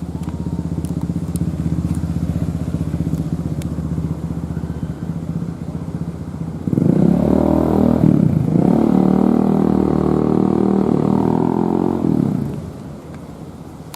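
A loud vehicle engine running steadily, then revving hard from about seven seconds in, its pitch swinging up and down, before dropping back about five seconds later.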